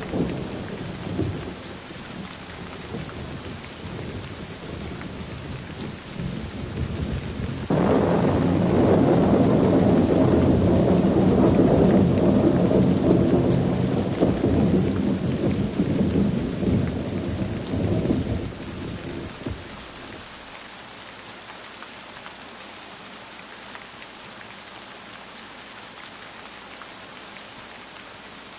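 Steady rain with thunder. A rumble dies away at the start; about eight seconds in a loud thunderclap breaks and rolls for some ten seconds, fading out, leaving the rain alone.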